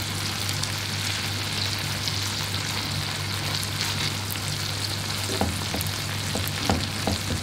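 Whole tiger prawns sizzling steadily in olive oil in a frying pan, over a low steady hum. From about five seconds in there are a few short clicks as a fork turns the prawns against the pan.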